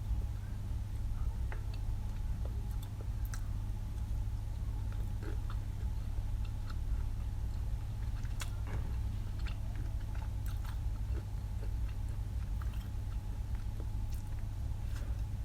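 A person eating close to the microphone: chewing and biting, with scattered small crunches and clicks, over a steady low hum.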